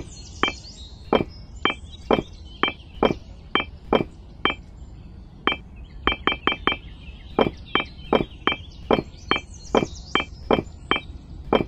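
Miniature fired-clay bricks clinking as they are dropped one at a time into a toy trailer's plastic bed and onto other bricks: a sharp click with a short ringing tone, about two a second, unevenly spaced.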